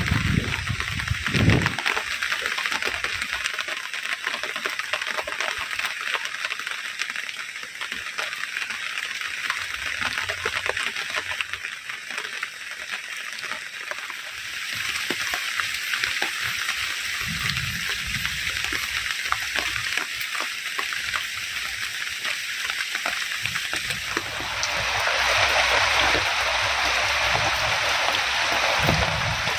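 Heavy rain falling steadily, growing louder and heavier about 25 seconds in.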